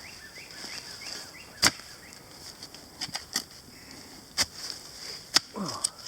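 Shovel chopping into root-bound soil: five sharp strikes spaced irregularly, each a short hard chop.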